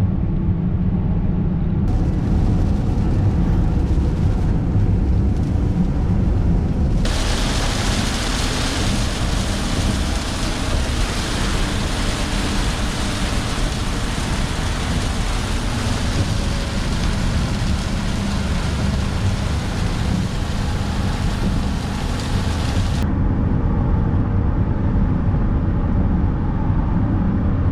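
Steady low road and engine rumble inside a moving diesel BMW E70 X5. From several seconds in, the hiss of heavy rain on the vehicle joins it, then cuts off suddenly a few seconds before the end.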